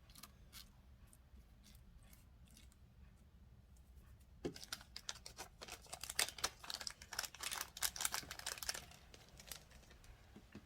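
Slime being pressed and squished by hand, giving scattered small clicks and then, about four seconds in, a dense run of quick crackling pops lasting about four seconds.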